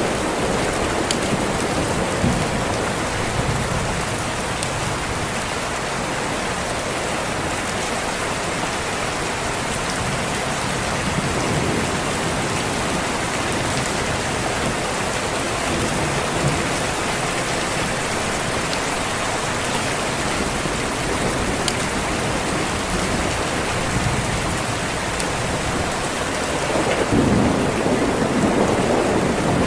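Steady heavy rain, with a low rumble of thunder swelling near the end.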